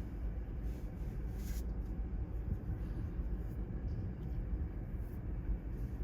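Steady low rumble of typhoon-swell surf breaking along the beach, with wind buffeting the microphone.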